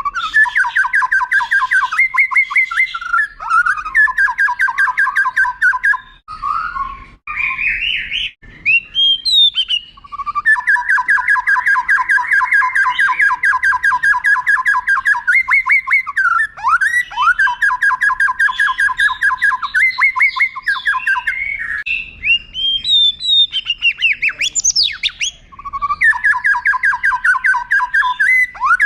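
White-rumped shama (murai batu) singing long, rapid rolling trills of repeated notes, several of them lasting a few seconds each. Between the trills come short rising whistles and glides.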